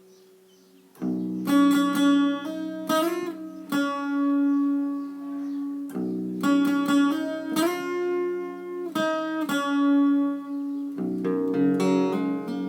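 Guitar, likely acoustic, played in drop tuning: after a faint ringing note, a melody of plucked notes over low ringing strings starts about a second in, in phrases with a couple of notes bent upward in pitch.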